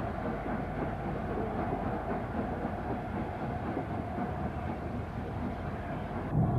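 Steam-hauled train running on the rails: a steady, dense rumble of wheels and carriages.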